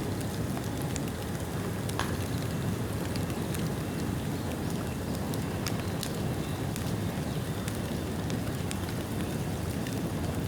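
Bonfire of rain-wet bamboo burning: a steady low rush of flame with scattered sharp crackles.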